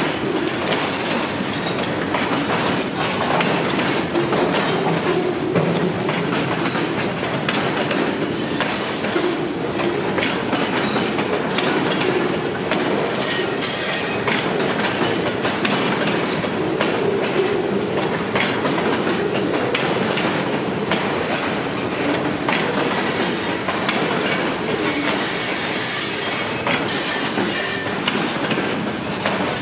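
Freight train cars rolling past, a steady clatter of wheels over the rail joints with some high-pitched wheel squeal.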